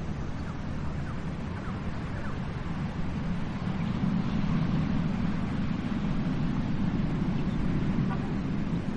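Ocean surf washing onto a beach: a steady low rush of waves that swells about halfway through, with a few faint short high chirps near the start and end.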